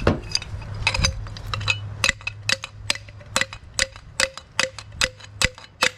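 Rapid hammer blows on metal, about four a second, each with a short metallic ring, driving a seized, worn-out bearing out of a lawn tractor's mower deck spindle.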